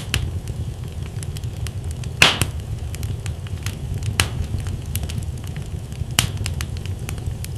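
Wood fire burning in a fireplace: a steady low rumble of flames with scattered sharp crackles and pops from the burning logs, the loudest pop about two seconds in.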